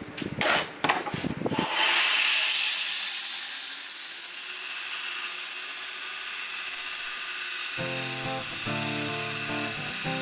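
A few sharp knocks, then a power grinder runs steadily on the steel with a high, even hiss. Background music comes back in near the end.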